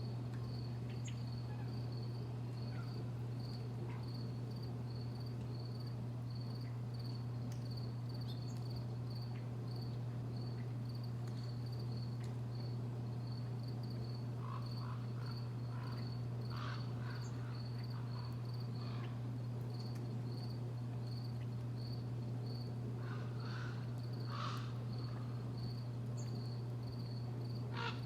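A cricket chirping steadily in a regular high-pitched pulse throughout, with short bird calls breaking in now and then, mostly in the second half and again near the end. A constant low hum runs underneath.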